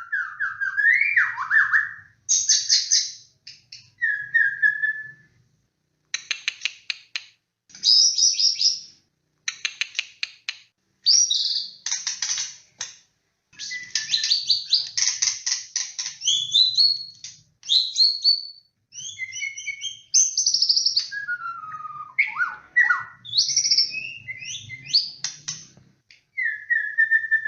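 White-rumped shama singing a varied, loud song of clear sliding whistles and rapid rattling trills, phrase after phrase with short pauses between them.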